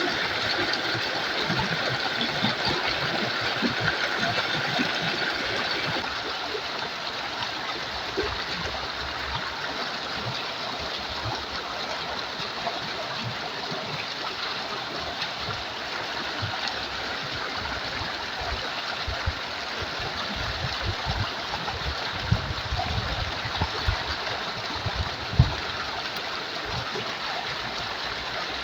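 A clear, shallow river flowing over rocks: steady rushing water. Scattered low knocks and thumps sound through it, with a few sharper ones in the last third.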